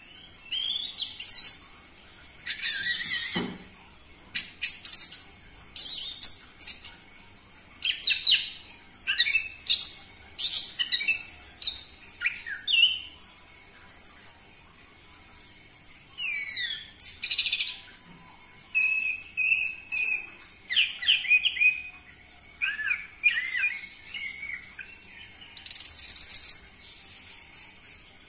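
Orange-headed thrush singing a loud, varied song of quick whistled and trilled phrases, each a second or two long with short pauses between them, including a rapid run of repeated notes about two-thirds of the way through.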